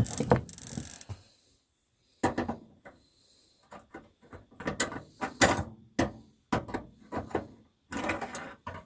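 Irregular clicks, knocks and rattles of hand tools and metal parts being worked into place while a bathroom heater is installed, in short clusters with brief pauses between.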